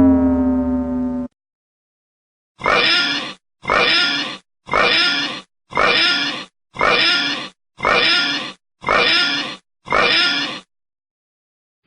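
A sound-effect clip of a harsh animal call, repeated eight times at about one call a second, each call the same. Before it, a held synthesizer tone from the previous effect stops abruptly just over a second in.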